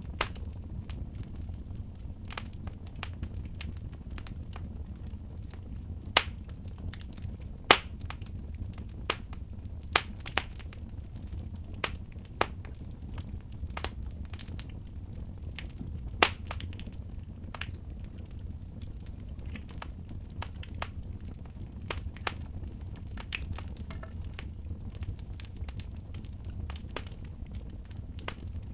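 Wood fire in a fireplace crackling, with sharp pops at irregular intervals, the loudest a few seconds in and again around the middle, over a steady low rumble.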